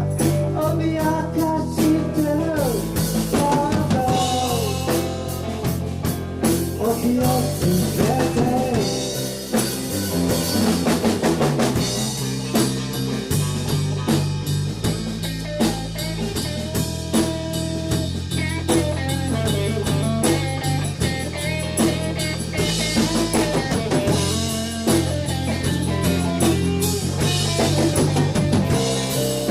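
A rock band playing a song live: drum kit keeping a steady beat under bass and electric guitar, with a sung melody carried mostly through the first part.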